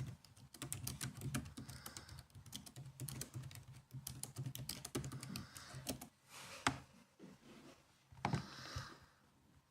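Typing on a laptop keyboard: a rapid run of key clicks that thins out after about six seconds into a few separate, louder key presses.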